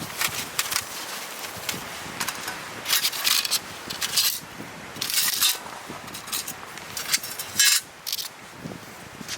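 Light metal clinking and scraping of camp gear being handled: many short clinks and a few longer scrapes, the loudest near the end.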